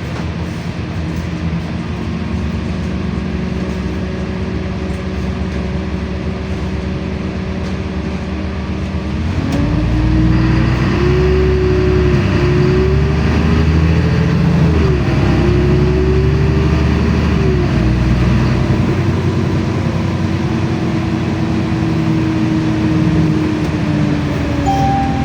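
LiAZ-5292.65 city bus running, heard from inside the cabin. It runs steadily at first, then about nine seconds in it pulls away and accelerates: the engine note rises and falls back at each of about three gear changes before settling into a steady run.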